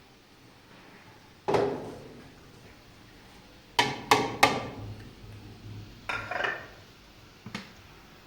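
Hard objects knocking and clattering: a single knock, then three quick sharp clacks about four seconds in, a rougher clatter near six seconds and a small knock near the end.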